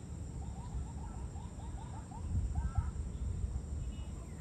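A bird calling: a quick run of about ten short, hooked notes, about four or five a second, stopping near three seconds in, over a steady low rumble.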